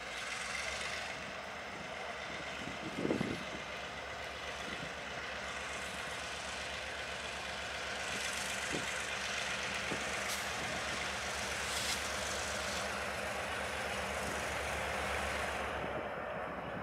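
Train running past: a steady rumble and rail noise with a few sharp knocks, the loudest about three seconds in. The higher part of the noise dies away near the end.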